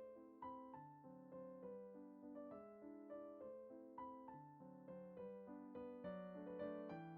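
Quiet background piano music: a gentle melody of single notes and soft chords, struck about twice a second and each fading away.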